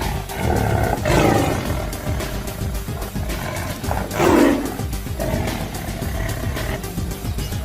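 A big cat roars twice, about a second in and again about four seconds in, over steady background music.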